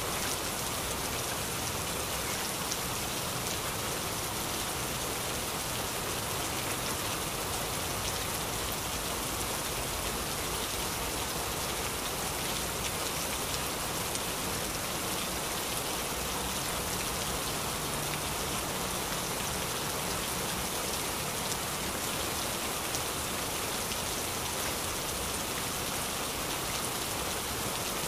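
Heavy rain falling steadily, a dense even hiss of drops on surfaces with no breaks.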